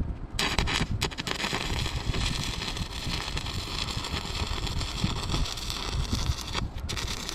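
Welding arc crackling steadily as a repair plate is welded onto a truck fender. It starts about half a second in and breaks off briefly near the end before starting again.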